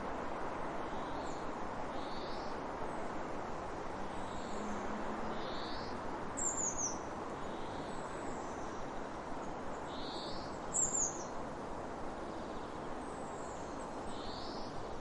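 Birds calling over a steady rushing noise. A soft call repeats every second and a half or so, and twice a sharper, high, falling chirp stands out as the loudest sound.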